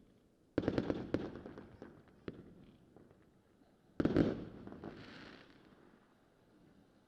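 Consumer fireworks going off: two salvos of sharp bangs about three and a half seconds apart, each a quick cluster of cracks that fades into scattered crackling, the second followed by a brief hiss.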